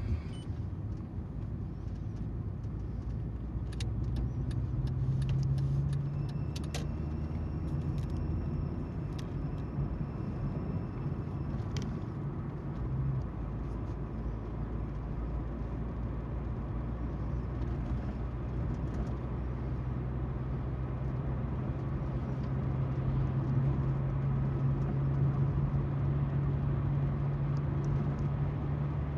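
Car's engine hum and tyre noise on the road from inside a moving car, steady throughout. Scattered sharp clicks come in the first dozen seconds.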